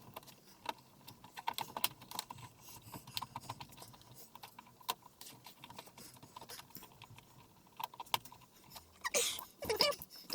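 Irregular light clicks and taps of small parts being handled and fitted while a flat-screen TV is put back together. Near the end comes a short pitched, wavering call.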